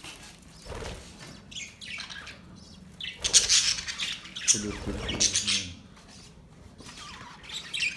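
Budgerigars chirping and squawking in short, repeated bursts of high-pitched chatter.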